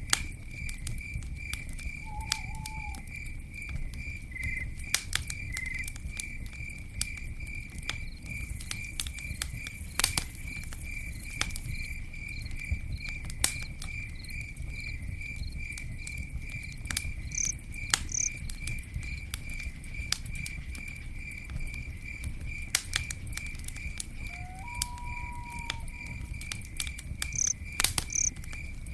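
Campfire burning with a low steady rumble and scattered sharp pops and crackles. A cricket chirps steadily in a fast, even pulse throughout, and a few brief faint calls come and go.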